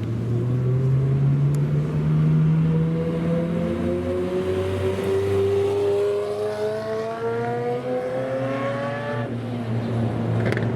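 Supercar engine accelerating, its pitch climbing steadily for several seconds and then dropping sharply about nine seconds in, over the steady lower drone of other engines running.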